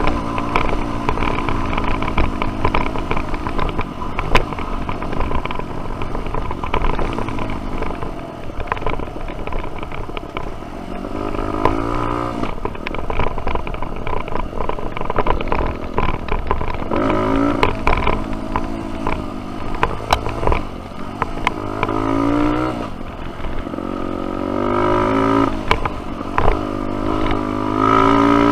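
Single-cylinder dirt bike engine under way on a trail, revving up and dropping back again and again as the throttle is worked.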